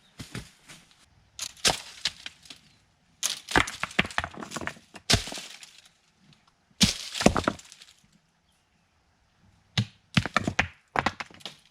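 Dry sticks and branches cracking and snapping, in four bursts of sharp cracks with short pauses between.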